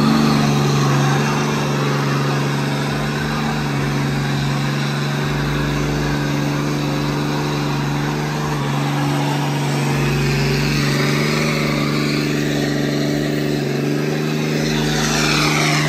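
A truck engine revved up and held at steady high revs, one constant note, with a loud rushing hiss over it.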